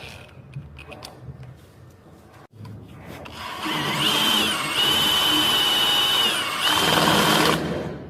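Electric drill boring a socket-box hole, starting about three seconds in and running steadily until near the end; its whine dips in pitch twice as the bit takes load.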